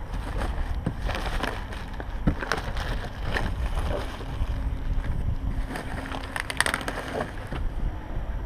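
Plastic wrap being pulled and crumpled off a cardboard box, irregular crackling and rustling with scattered sharp crinkles, over a low rumble of handling noise.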